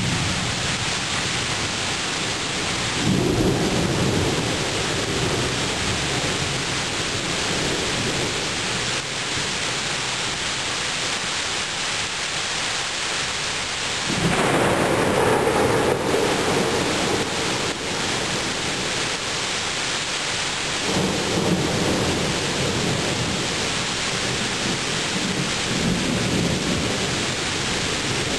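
Thunderstorm: steady rain hissing throughout, with rolling thunder rumbling in several waves, one about three seconds in, the loudest starting suddenly about halfway through, and another about three quarters of the way through.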